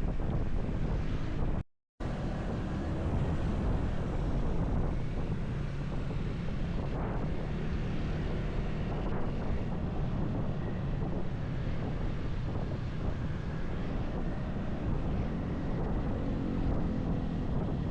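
Wind rushing over an action camera's microphone on a moving motorcycle, a steady heavy low rumble of road and engine noise. The sound drops out completely for a moment about two seconds in.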